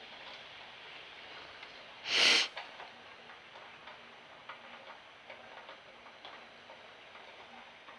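Rain falling and dripping, a steady faint hiss with scattered small drip ticks. About two seconds in, one loud, short burst of noise lasting about half a second.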